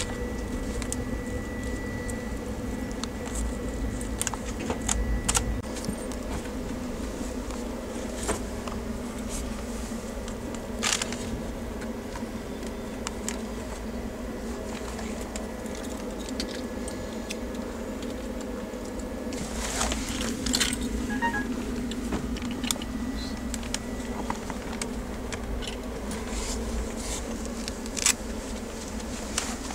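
Interior running noise of a moving passenger train coach: a steady low rumble with a hum, scattered light rattles and clicks, and a louder rush of noise about two-thirds of the way through.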